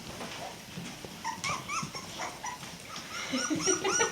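Puppies squeaking and whimpering in short high yips as they play, many overlapping and coming thicker near the end, with small low growls among them.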